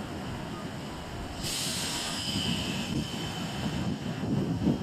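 Nankai 2000-series electric train pulling into the station, with a low rumble of wheels on rail that grows louder. About a second and a half in, a high squealing hiss starts suddenly and fades over the next second or so.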